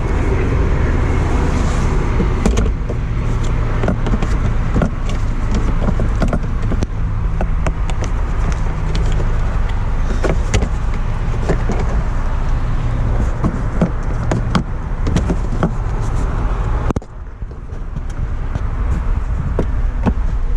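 Mazda MX-5 Miata's 2.0-litre four-cylinder idling steadily while the soft top is raised, with repeated clicks and knocks from the top's frame and latches. About 17 seconds in, the top closes over the cabin and the outside sound suddenly turns muffled.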